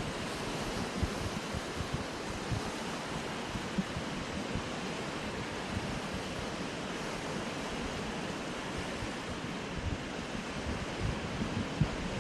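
Sea waves washing against coastal rocks in a steady rush, with wind buffeting the smartphone's microphone in irregular low thumps.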